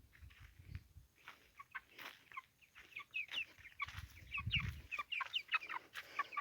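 A flock of chicks (young chickens) peeping and chirping in many short, quick calls, frightened by a dog. A low rumble is heard at the start and again about four seconds in.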